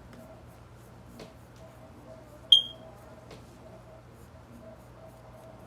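A single short, high electronic beep about two and a half seconds in, over a faint steady room hum with a couple of light clicks.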